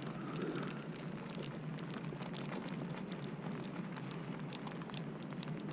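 Rain pattering: a soft steady hiss dotted with many small, sharp drop ticks.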